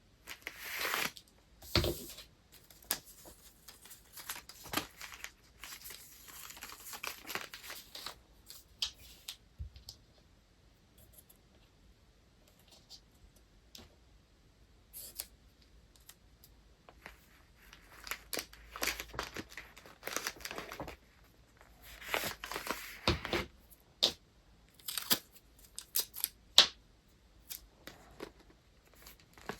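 Paper and packing materials being handled during gift wrapping: rustling and crinkling in irregular bursts, with sharp taps and clicks and short quiet pauses between.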